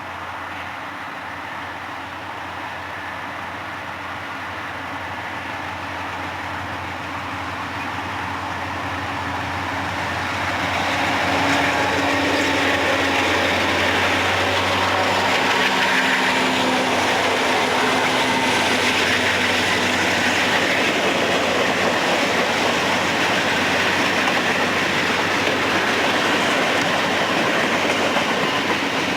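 Train approaching and passing close: a low engine hum and rolling noise grow louder over the first ten seconds or so, then give way to the steady noise of cars rolling by on the rails.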